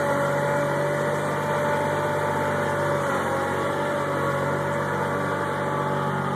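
Tractor engine running steadily at a constant speed, its pitch dipping slightly about three seconds in.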